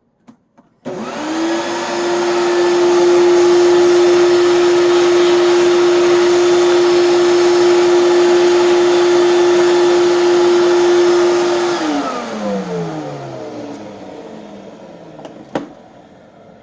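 Hoover canister vacuum cleaner switched on about a second in, its motor spinning up to a steady high whine. It runs for about eleven seconds, then is switched off and winds down with falling pitch. A single click near the end.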